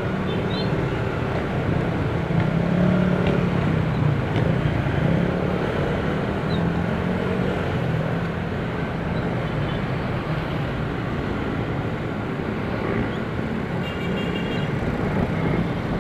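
Motor vehicle running in traffic: a steady engine hum under road noise, with faint short horn toots near the end.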